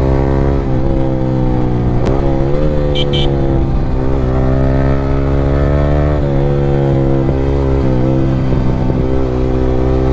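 Yamaha R15 V3's single-cylinder engine running through an aftermarket Akrapovic exhaust while being ridden, the note dropping and picking up again several times with throttle changes and shifts. It gives a few sharp crackling pops as the throttle closes, and revs up near the end.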